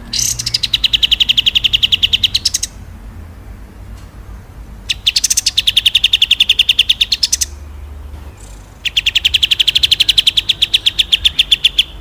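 Small songbird giving three rapid rolling trills of quick, evenly repeated high notes, about twelve a second. Each trill lasts two to three seconds, with short pauses between.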